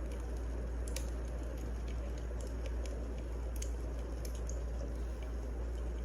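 Wood fire burning: a steady low rumble with scattered sharp crackles and pops, the loudest pop about a second in.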